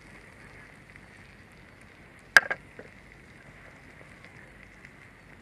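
Campfire burning faintly in a homemade fire pit, with one sharp loud crack about halfway through followed by two smaller ones.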